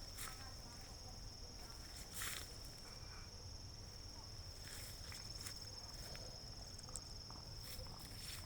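Insects, such as crickets, giving one steady, unbroken high trill, with a few soft rustles or steps.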